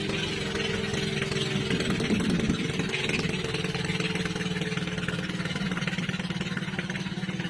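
A fishing boat's engine running steadily at a fast, even beat, its pitch shifting briefly about two seconds in.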